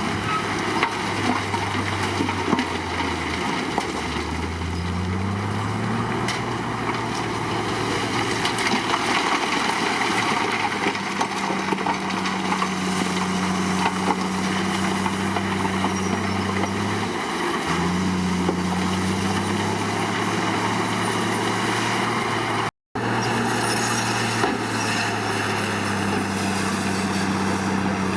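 Komatsu D53 crawler bulldozer's diesel engine working, its pitch dropping and rising several times as the throttle changes. The sound cuts out for a split second about three quarters of the way through.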